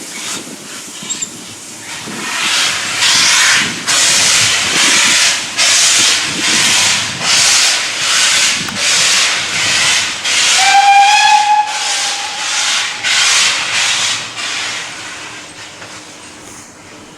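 Steam locomotive working hard, its exhaust beating in a steady loud chuff about one and a half times a second, with a short whistle blast about two thirds of the way through; the beats fade near the end.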